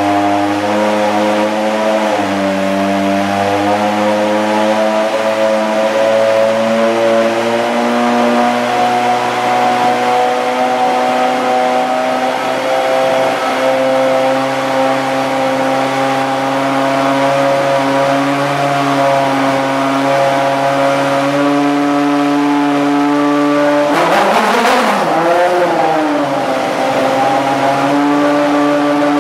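The KeePer TOM'S SC430 GT500 race car's V8 running at a steady warm-up idle, its pitch drifting slightly. About 24 seconds in, a brief blip of the throttle makes the pitch swing up and down before it settles back to idle.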